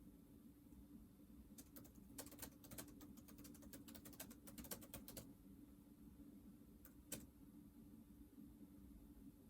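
Near silence: a faint steady hum with scattered small sharp clicks, clustered for a few seconds and then once more near the end.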